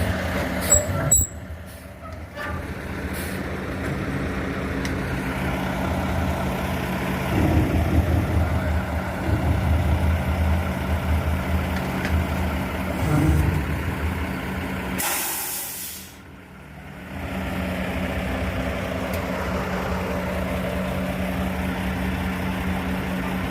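Dump truck engine running steadily, getting louder for several seconds in the middle. About fifteen seconds in, the air brakes give a short, sharp hiss.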